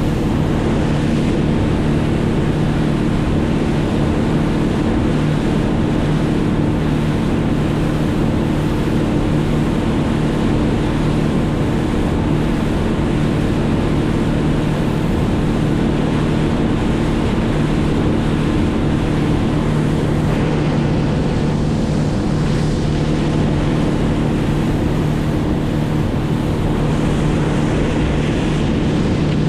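An engine running steadily at a constant speed, its pitch unchanging, over a continuous rushing noise.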